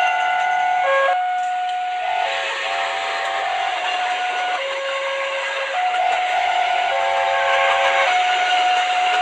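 Steam-train whistle and hissing sound effect for a miniature train: held whistle notes that switch between a few pitches every second or so, over a steady hiss.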